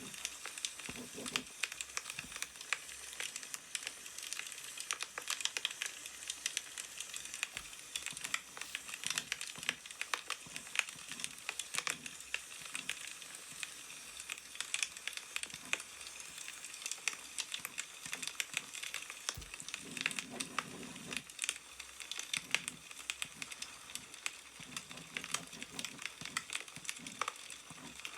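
Wood fire crackling steadily with many small pops, with newspaper pages rustling now and then.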